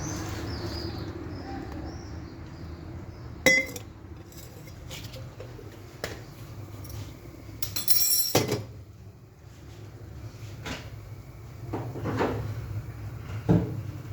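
Kitchen dishes and utensils clinking and knocking, with a few sharp clinks: one about three and a half seconds in rings briefly, a louder cluster comes around the middle, and a couple more come near the end. A steady low hum runs underneath.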